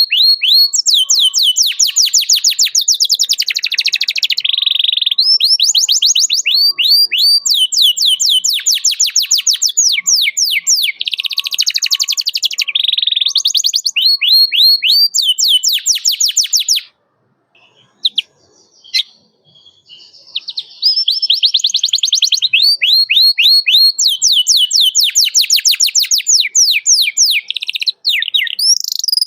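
Domestic canary singing: fast trills of rapid, repeated falling chirps. The song breaks off for a few seconds a little past the middle, then starts again.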